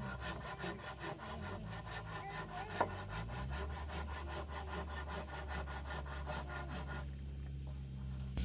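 Rapid, even rasping strokes, about five a second, like a saw or tool scraping wood, with one sharper knock about three seconds in.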